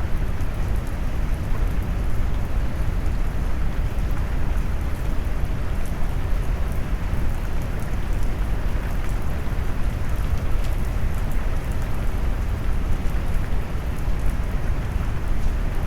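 Steady rain mixed with brown noise: a deep, even rush with most of its weight low down and little hiss on top.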